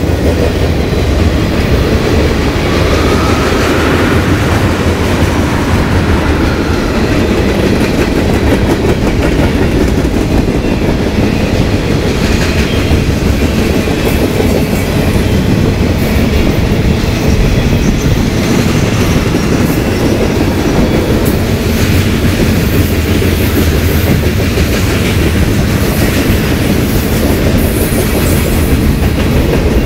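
CSX mixed freight train's cars rolling past close by: a steady rumble of steel wheels on rail with clickety-clack as the wheelsets cross the rail joints.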